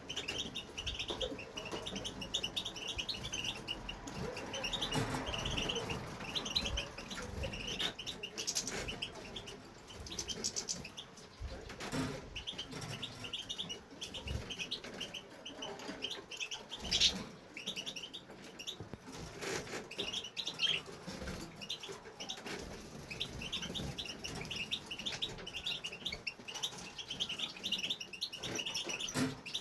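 European goldfinch singing a long, continuous twittering song of rapid short high notes, with a few brief flutters of wings.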